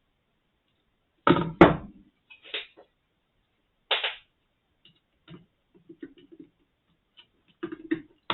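Knocks and clicks from handling the plastic parts of a Brüel & Kjær 2250 sound level meter's casing during a screen swap. Two sharp knocks come a little over a second in, followed by lighter clicks and taps.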